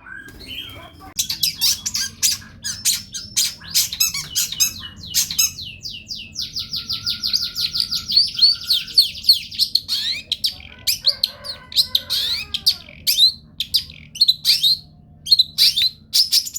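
Long-tailed shrike (cendet) singing a fast, varied song of sharp chirps and harsh squawky notes, with a rapid run of repeated high notes in the middle.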